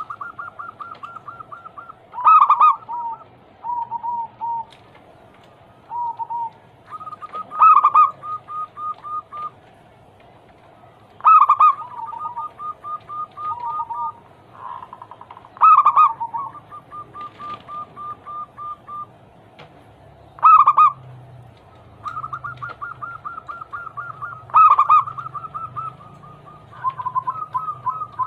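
Zebra doves (perkutut) cooing. Each phrase opens with a loud note and runs on in a quick series of short staccato coos, repeating about every four seconds, with runs at two slightly different pitches overlapping.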